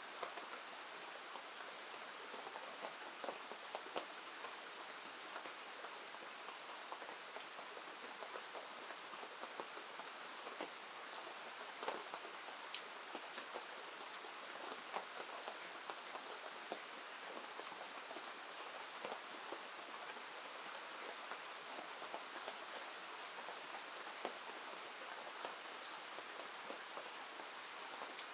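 Steady rain: a constant hiss with many irregular sharp ticks of drops landing.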